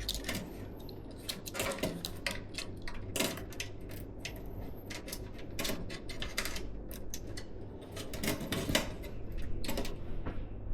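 Irregular small clicks, taps and light rattles of hard plastic and metal PC parts being handled during a computer build, over a steady low hum.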